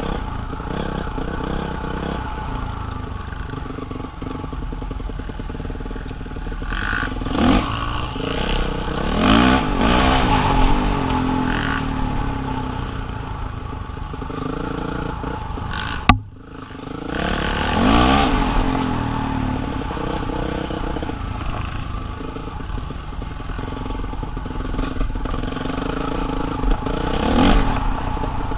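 A small vehicle engine running, revving up and easing off several times, with a sharp click and a brief drop in sound about sixteen seconds in.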